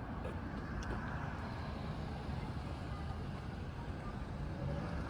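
Customised Yamaha SR400's air-cooled single-cylinder engine running steadily.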